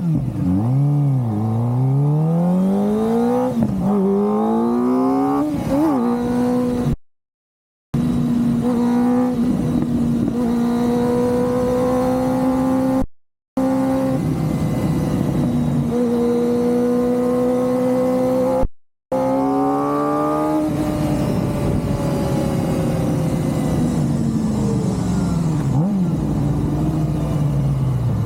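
Kawasaki ZX-4RR's inline-four engine revving, its pitch climbing with two short dips over the first six seconds, then held steady at high revs. Near the end the pitch falls slowly as it comes off the throttle. Three brief silent gaps break up the sound.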